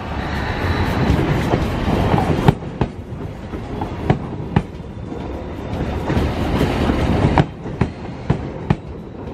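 Stainless-steel commuter coaches rolling past on the adjacent track: a steady rumble of wheels on rail, with sharp clicks coming in pairs as each bogie's wheels cross a rail joint.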